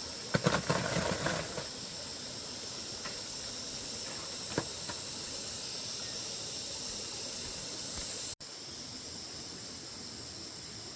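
Steady high-pitched drone of insects, such as cicadas or crickets, with a burst of rustling and crackling near the start and a single click a few seconds later.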